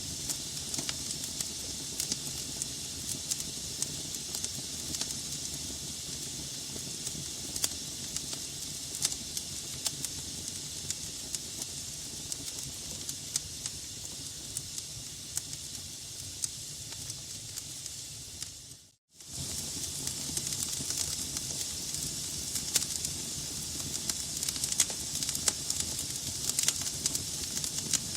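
Logs burning in a fireplace: a steady hiss with frequent small crackles and pops. About two-thirds of the way in, the sound dips out for a moment and comes straight back.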